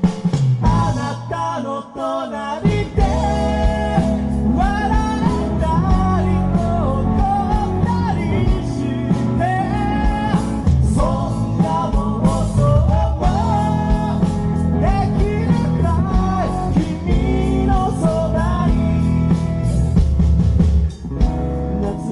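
Rock band playing live: after a sparser start, the full band with drums, bass and guitar comes in about two and a half seconds in, with a melodic lead line bending over the top.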